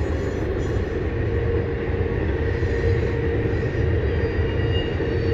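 CN freight train running along the far bank of the river: a steady low rumble with a faint held tone.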